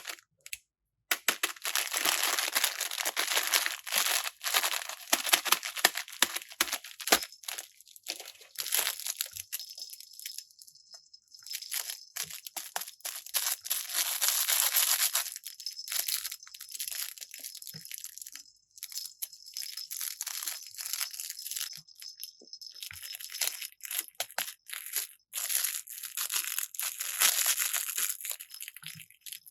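Plastic packaging being handled, crinkled and torn open, in long stretches of crackling with brief pauses.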